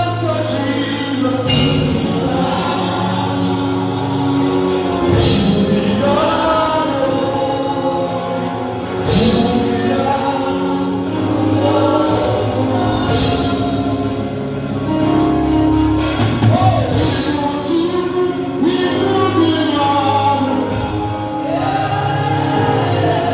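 Gospel music with choir singing over a steady band accompaniment.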